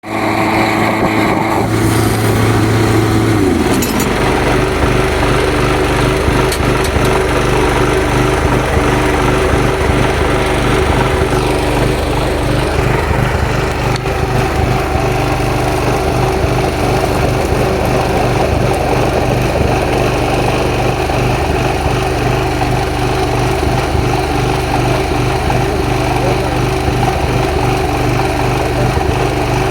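A small engine running steadily, its note dropping a few seconds in and then holding.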